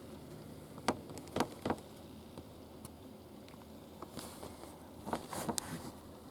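Rain falling, a steady hiss with scattered sharp taps, a few in the first two seconds and a cluster near the end.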